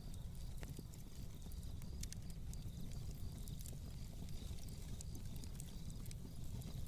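Fireplace fire crackling: sparse sharp pops and clicks over a low steady rumble.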